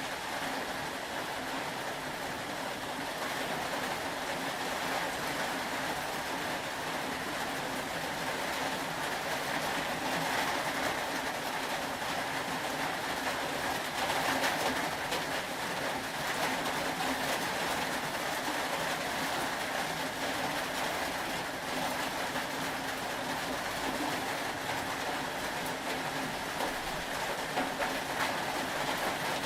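Steady rain, an even hiss of falling drops with a faint low hum beneath, unchanging throughout.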